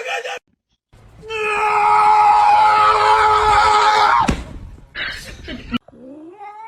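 A long, loud scream held for about three seconds, ending with a sharp click. Near the end a cat meows with a rising-then-falling yowl.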